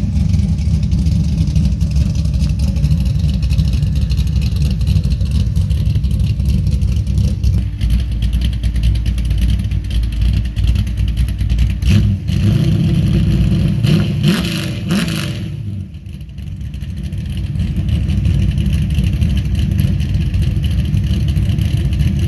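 Car engine with a freshly built short block and new camshaft running just after its first start-up, sounding crisp. The revs rise and fall a few times about twelve to fifteen seconds in, drop briefly, then settle back to a steady run.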